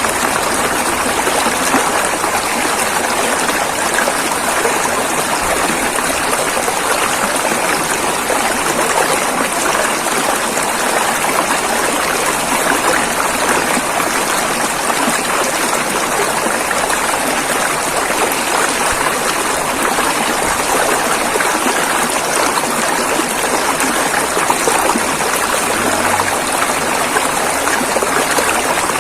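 River water flowing and rushing over rocks, a steady, even rushing that does not change.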